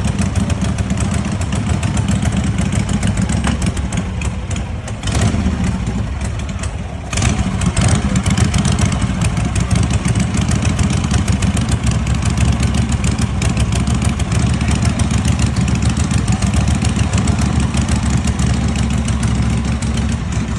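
1939 Harley-Davidson motorcycle engine running with a rapid, even beat. It drops quieter for a couple of seconds, then comes back louder about seven seconds in.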